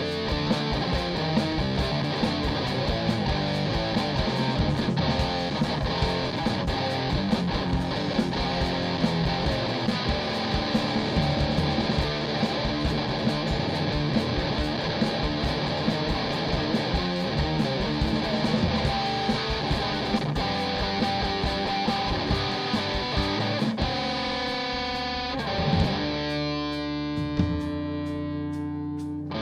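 Band playing an instrumental passage with distorted electric guitar and drums. About 24 seconds in, the drums drop out and a sustained guitar chord rings on and slowly fades.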